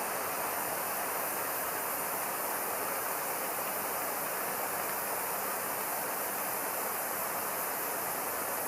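Steady rushing hiss of a heating tool warming the freshly machined impeller to release it from the machine bed.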